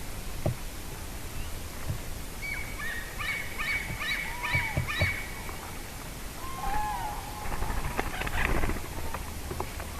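Cranes calling: a quick run of short, high bugling notes, then a few longer, lower arched calls about two-thirds of the way in. A few low knocks sound in between.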